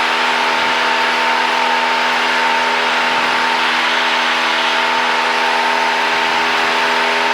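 Cessna 172's engine and propeller droning steadily at climb power, heard from inside the cabin.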